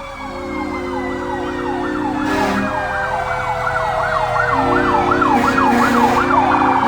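Fire truck sirens, growing louder. One siren sweeps up and down, quickening into a fast yelp, while another siren's pitch slides slowly down underneath. Low held notes start and stop along with them.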